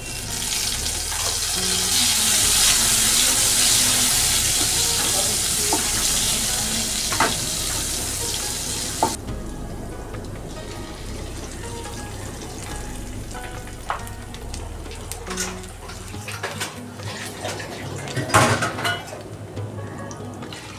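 Food sizzling loudly in hot oil in a pan, cutting off suddenly about nine seconds in. After that come scattered clinks and scrapes of a spoon against the pan, with soft background music underneath.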